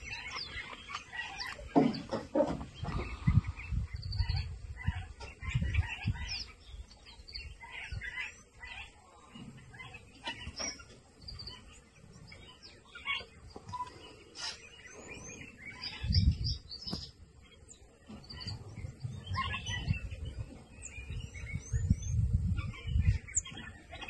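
Small birds chirping and twittering in many short, high calls throughout, with uneven low rumbles now and then, the strongest about two seconds in, about sixteen seconds in and near the end.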